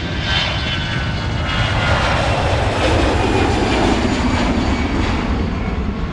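Airplane engine noise: a steady rush with faint whining tones that builds to its loudest a little past the middle and then eases off, like an aircraft passing.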